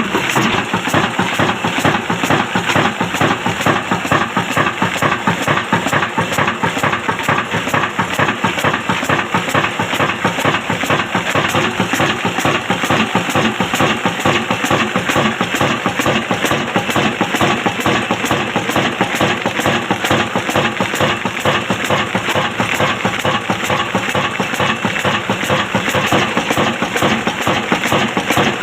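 Old stationary diesel engine running steadily with a rapid, even chugging beat.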